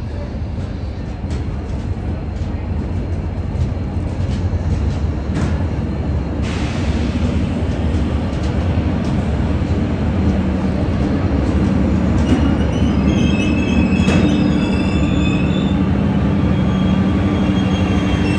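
A train rolling along the track, its low rumble slowly growing louder with scattered wheel clicks. From about halfway, high steel-wheel squealing sets in on top.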